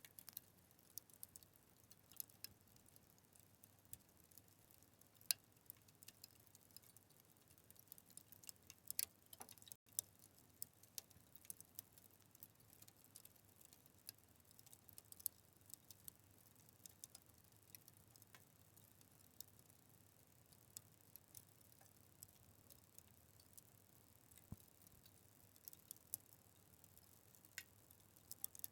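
Wood fire crackling: quiet, irregular pops and snaps over a faint hiss, with a few louder pops, one about five seconds in and a cluster around nine seconds. The sound cuts out for an instant just before ten seconds in.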